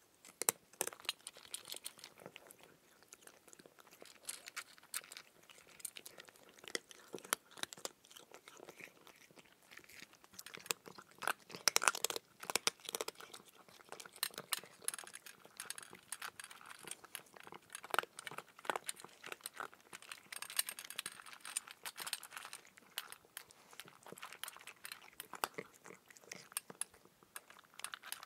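A person chewing raw cucumber: irregular crunches and clicks, with the loudest crunches about twelve seconds in.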